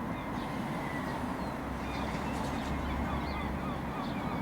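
Outdoor background: a steady low rumble with faint, short bird chirps scattered throughout.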